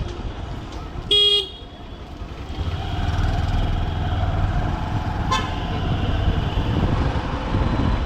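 Honda SP125 motorcycle's single-cylinder engine running through city traffic, with one short vehicle-horn honk about a second in. The engine sound drops away briefly just after the honk and builds again about two and a half seconds in.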